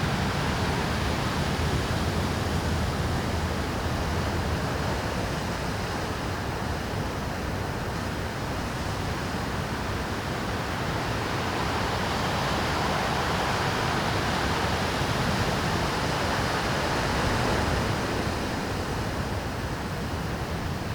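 Rough Pacific Ocean waves breaking on a rocky shore: a continuous rush of surf that swells louder a little past the middle and eases off again.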